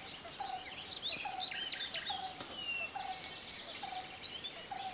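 Woodland birdsong: several birds chirping and trilling, while one bird repeats a short, lower note about once a second.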